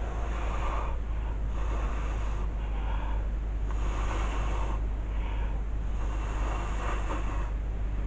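Breath blown in repeated puffs, about one a second, pushing wet acrylic paint across a canvas in a Dutch pour. The air hitting the microphone gives a steady low rumble underneath.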